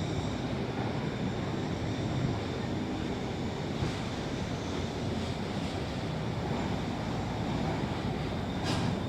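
Lisbon funicular car running on its track: a steady low rumble and hiss, with a faint high whine fading out in the first moment and a short hiss near the end.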